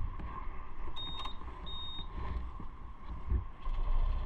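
Motorcycle running on the road with a steady low rumble, and two short high beeps about a second in.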